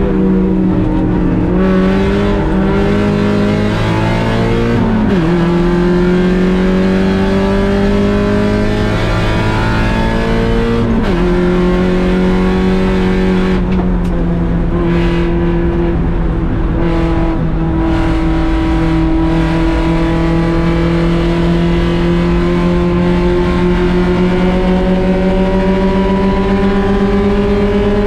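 Mazda Miata's 1.6-litre four-cylinder race engine under hard acceleration, its pitch climbing and then dropping sharply at two upshifts about five and eleven seconds in. After that it makes one long, slow climb in a high gear.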